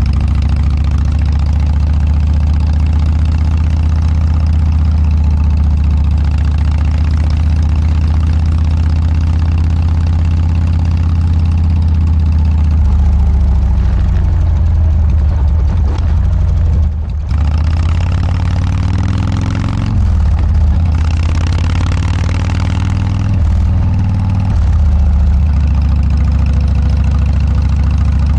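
Harley-Davidson Dyna's V-twin idling loudly through aftermarket Motorstage mufflers, with a steady, lumpy low beat. From about halfway through, the throttle is blipped a few times, the pitch rising and falling, before it settles back to idle near the end.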